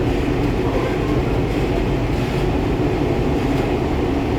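Metro train running steadily between stations, a deep, even rumble of wheels and running gear heard from inside the carriage.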